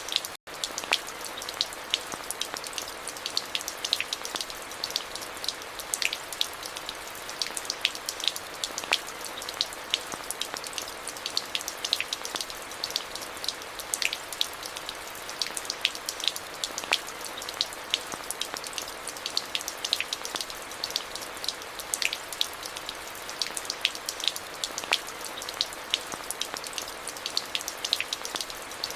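Steady rain falling, with many individual drops striking close by as sharp ticks over an even hiss. The sound cuts out for a split second just after the start.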